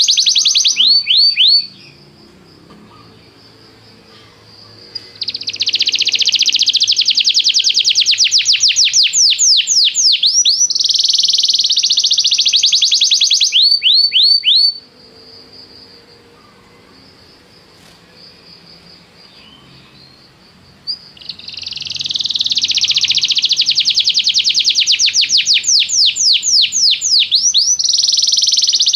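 Domestic canary singing long, fast trills of rapidly repeated falling notes, in two long phrases with quieter pauses between them.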